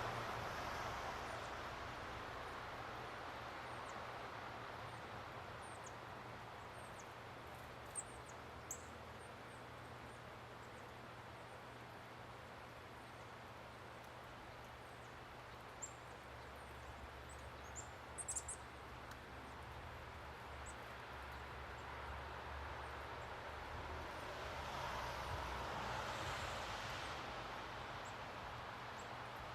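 Quiet outdoor ambience: a soft rushing noise swells near the start and again near the end, and small birds give a few short, high chirps, mostly in the middle.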